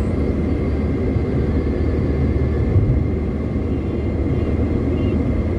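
Car driving on a highway: a steady low rumble of road and engine noise, with a faint steady high tone over it.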